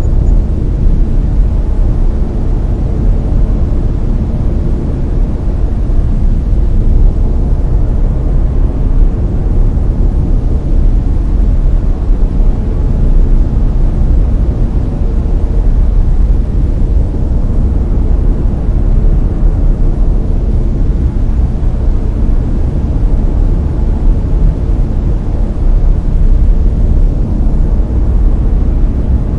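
Layered brown noise: a loud, steady, deep hiss, heaviest in the bass and thinning toward the treble, with no change throughout.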